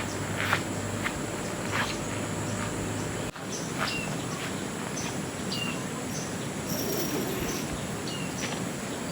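Tropical forest ambience: insects trilling in a steady high drone over a steady hiss of flowing water or rain. A few soft knocks in the first three seconds, then birds giving short chirps after a brief break in the sound.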